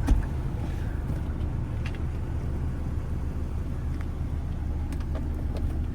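2004 Toyota Tacoma's 2.4-litre four-cylinder engine idling with the air conditioning on, a steady low hum heard from inside the cab. A short knock right at the start, then a few faint clicks.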